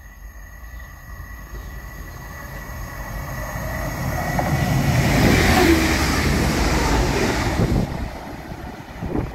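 A TransPennine Express Class 185 diesel multiple unit passing through the station at speed. Its engine and wheel noise builds as it approaches, is loudest just past the middle, and drops away as it goes by.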